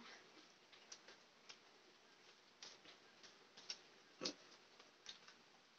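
Near silence broken by faint, irregularly spaced soft clicks, the strongest a little after four seconds: a man chewing a mouthful of boiled corn with his mouth closed.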